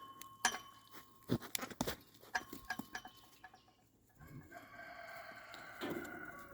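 A rooster crows once, a long call starting a little past the middle, after a run of scattered sharp clicks and knocks.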